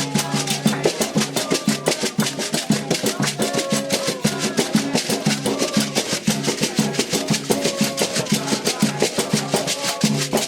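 Candomblé ritual drumming: atabaque hand drums beating a fast, steady rhythm, with faint singing at times.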